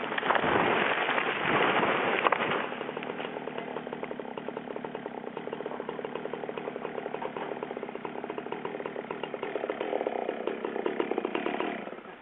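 Chainsaw running at a tree, loud and rough for the first two seconds or so, then running steadily before cutting off near the end.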